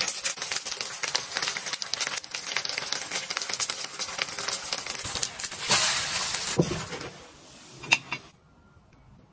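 Flatbread frying in oil on an electric baking pan, a dense crackling sizzle that swells louder about five and a half seconds in. A couple of soft knocks follow, and near the end it drops to near silence.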